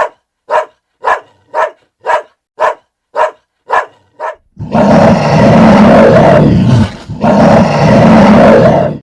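An animal giving nine short, evenly spaced barking calls, about two a second, followed by two long, loud roars.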